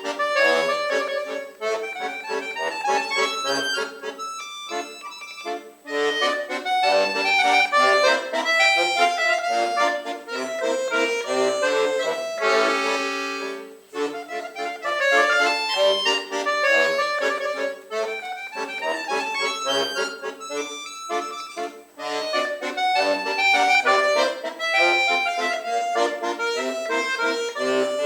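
Solo accordion playing a busy passage of quick notes and chords, broken by short pauses, with one long held chord about halfway through.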